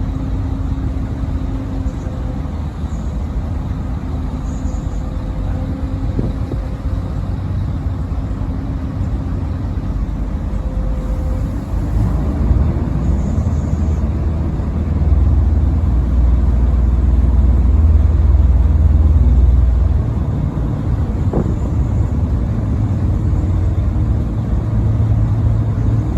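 Boat's engine running with a steady low rumble and hum as the boat swings around. The rumble grows louder about fifteen seconds in and eases off a few seconds later.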